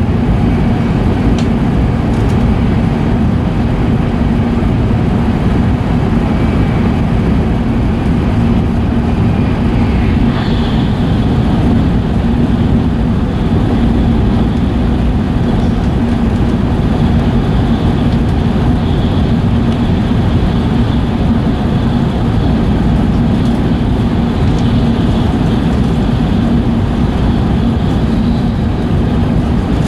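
Steady running noise of an E5 series Shinkansen train heard from inside the passenger car, with a constant low hum under the rushing noise of the wheels and air.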